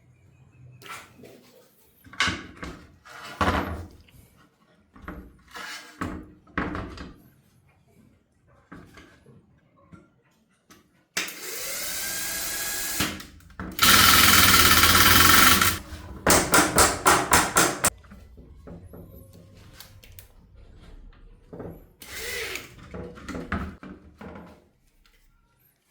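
Handheld power drill running. It spins up with a rising whine, runs loud for about two seconds, then is pulsed in about eight quick short bursts. Scattered clicks and knocks of tools being handled come before and after.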